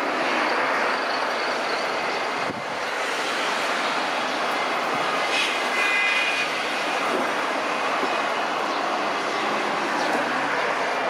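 Jet noise from an Embraer E-190's GE CF34 turbofan engines, a steady rushing sound with a faint high whine about halfway through.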